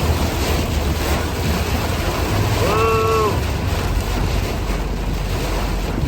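Car driving through heavy rain: a steady wash of rain and road noise with a low rumble. About halfway through, a short pitched tone sounds once, under a second long.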